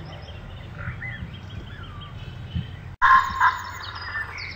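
Birds chirping and calling, faint at first over a low hum. About three seconds in the sound breaks off abruptly and comes back as louder, busier birdsong with quick repeated chirps.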